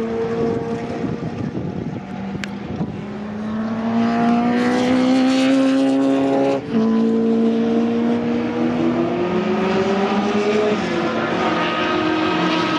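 Historic sports-prototype racing car engine at full throttle, its pitch rising steadily, then a quick upshift about six and a half seconds in, after which it runs on at high revs.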